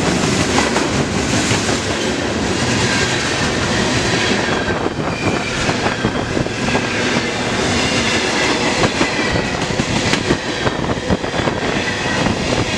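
Freight train of boxcars and tank cars rolling past close by: a steady rumble with the steel wheels clacking over the rail joints.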